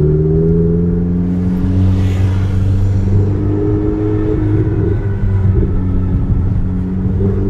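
Sports car engine heard from inside the cabin: the revs climb briefly at the start, then hold a steady, even engine note as the car drives on.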